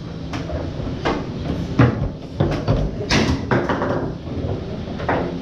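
Foosball being played on a Tornado table: the hard ball knocked by the rod men, and rods clacking against the table, in a string of sharp knocks. The loudest cluster comes about three seconds in.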